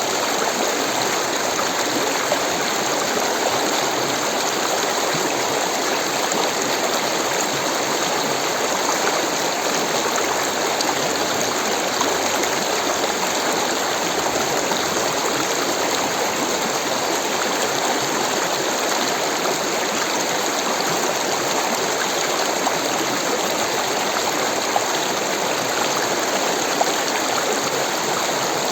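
Rushing water, a steady, unbroken flow like a stream running over rocks.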